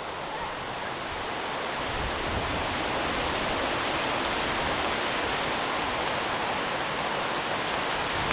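Steady rushing wind that swells over the first couple of seconds, with gusts buffeting the microphone.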